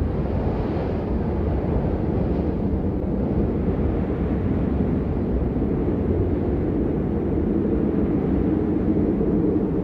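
Steady rain, a dense, even rushing noise that sits mostly low, with little hiss on top.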